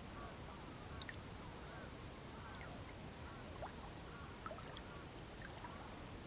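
Distant whooper swans and other birds calling across the lake, with echo. Many short, overlapping calls and a few sharper high chirps sound over a faint steady low background.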